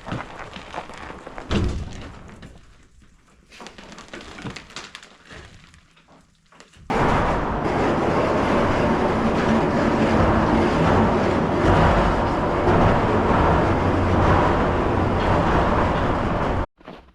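Light plane's engine and propeller running loud and steady, heard from close, starting abruptly about seven seconds in and cutting off suddenly near the end. Quieter scattered knocks and rustles come before it.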